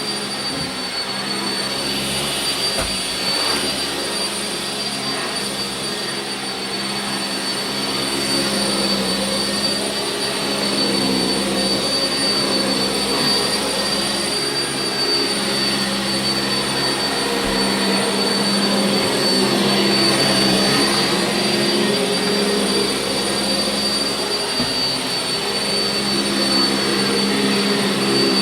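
Sanitaire SC679J commercial upright vacuum cleaner running steadily over carpet, with a high, even motor whine over a low hum. It gets somewhat louder in the second half.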